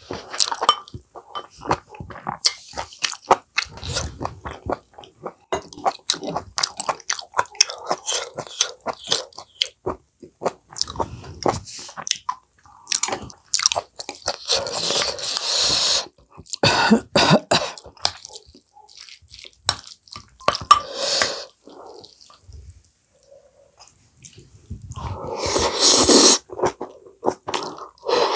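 Close-up eating sounds: a person chewing and biting food with many small wet mouth clicks and smacks, and chopsticks tapping the dishes. A few longer, louder breathy bursts break in around the middle and near the end.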